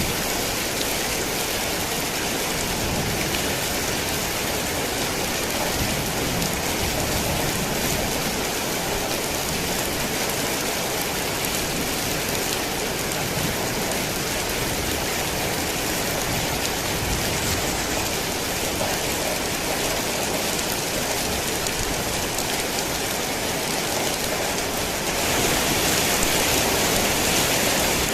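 Heavy rain falling steadily as an even hiss of drops on surfaces, growing a little louder and brighter near the end.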